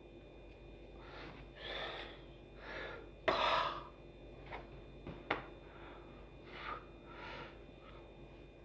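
A person whispering or breathing audibly in short breathy bursts, the loudest about three seconds in, with a couple of sharp clicks.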